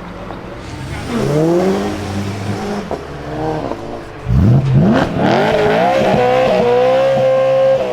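BMW performance car's engine revving under hard acceleration: the pitch climbs about a second in, dips, then climbs sharply just past halfway and holds at high revs.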